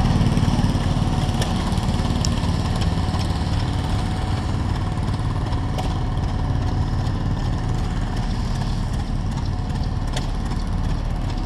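A small engine running steadily, a little louder in the first second.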